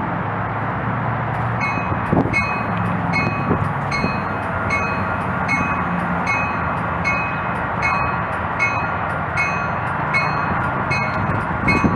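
Railroad grade-crossing bell dinging about twice a second, starting about a second in, over the steady rumble of a train. The rumble swells louder near the end.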